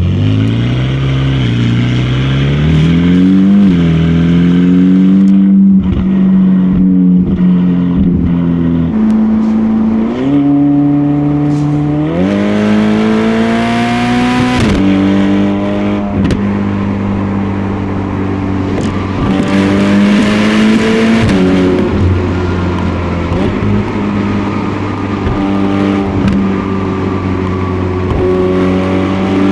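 Ferrari Portofino's twin-turbo V8 running through its stock exhaust while driving. The engine note climbs under acceleration and drops back at gear changes several times, with steadier cruising stretches between.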